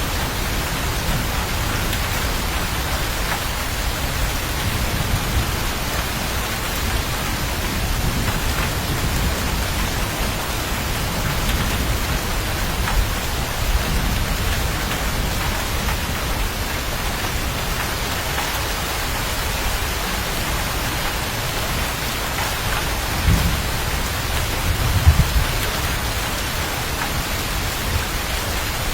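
Steady rain falling, with low thunder rumbling under it. Two brief louder low rumbles come a few seconds before the end.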